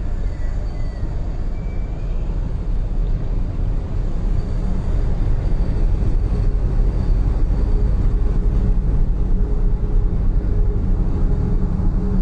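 Steady low rumble of a heavy vehicle's engine running, growing somewhat louder about four to six seconds in, with a faint steady hum added later.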